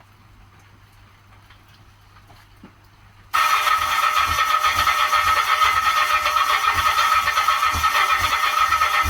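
Kawasaki GT750's inline-four being turned over on its electric starter, starting suddenly about a third of the way in: a steady starter whine with repeated low pulses from the cylinders. The engine is cranking without catching after new pickup coils were fitted, which the owner puts down to idle screws not set far enough in.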